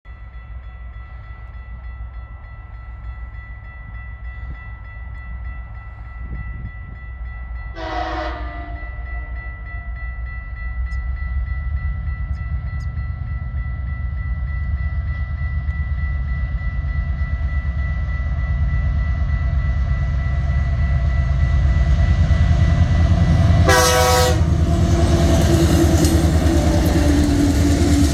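TasRail freight train's diesel-electric locomotives approaching, their engine rumble steadily growing louder. The horn sounds a short blast about a third of the way in and another just before the locomotives pass close by near the end, with wheel noise on the rails.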